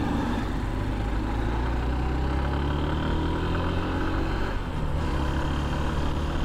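Hero Xtreme 160R's single-cylinder fuel-injected engine pulling the motorcycle up to speed, its note rising steadily. The pitch drops briefly at an upshift about four and a half seconds in, then climbs again.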